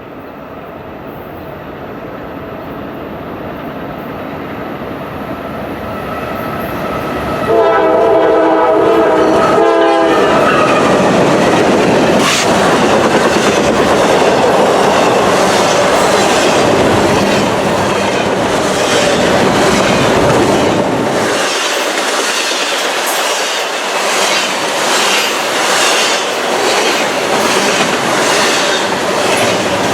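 A train approaching and passing close by. Its rumble builds steadily, the locomotive horn sounds for about two seconds, then the wheels clack rhythmically over the rail joints as the cars roll past.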